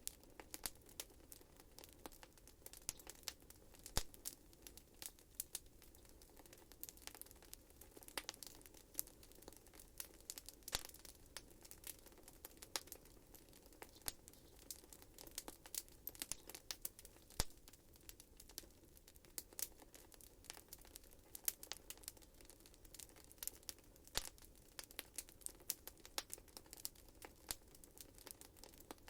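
Wood fire burning in a fireplace, crackling with irregular sharp snaps and pops, a few louder ones standing out, over a faint low hiss.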